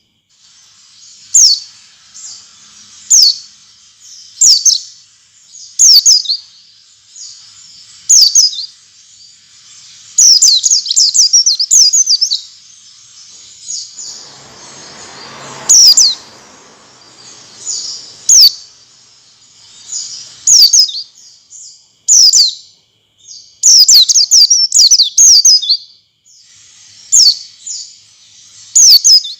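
White-eye (pleci) giving sharp, high, downslurred chirps, sometimes singly and sometimes in quick runs, every second or two. It is a lure call used to prompt captive white-eyes to sing.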